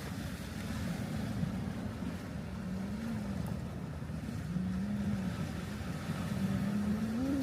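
A motor running steadily under a low rumble, its pitch rising and falling a little every second or two.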